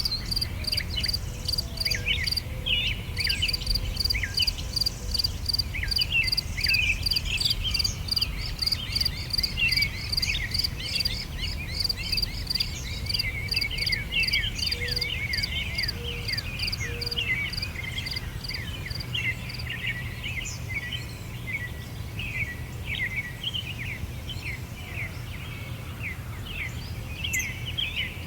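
Many small birds chirping and calling over one another, with an insect, likely a cricket, chirping in a fast, even rhythm that stops about two-thirds of the way through, over a steady low background rumble.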